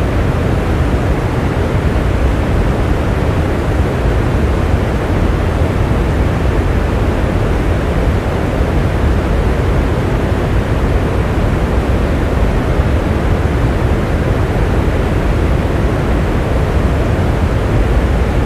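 Heavy rain falling steadily, an even, deep rushing noise with no separate drops or thunder standing out.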